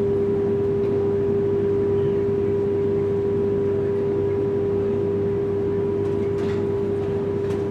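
A steady, unwavering mid-pitched tone held over the low hum and rumble inside a high-speed train carriage.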